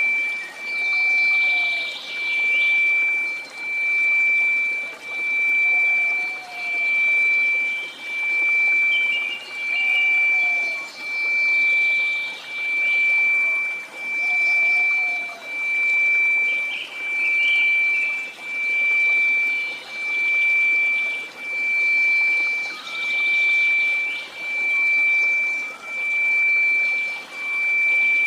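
A synthetic 2334 Hz sine tone held steady over a hiss of white noise, its loudness swelling and fading in even pulses about every second and a half. A few faint short chirps and gurgles sit in the noise.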